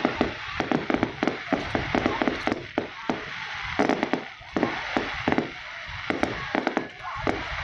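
Fireworks display going off: rapid, irregular bangs and crackles, several a second, with music playing underneath.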